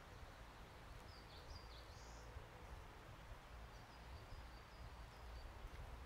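Faint forest ambience over a steady hiss and low rumble. A small bird sings a short high warbled phrase about a second in, then gives a quick run of about six short high chirps in the second half.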